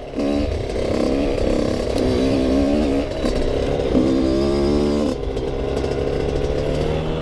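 Yamaha YZ85 dirt bike's two-stroke engine revving up and down as it is ridden, settling to a steadier, lower note about five seconds in.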